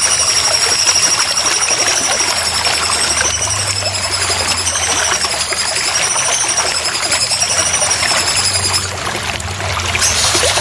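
Water trickling steadily, with a thin high tone that wavers slightly above it and stops about nine seconds in.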